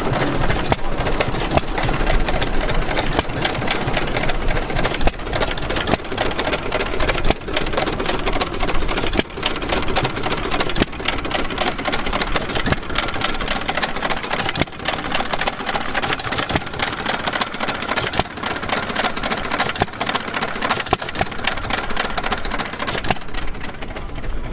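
Antique gas engines running, a steady mechanical clatter of many close, rapid clicks and knocks.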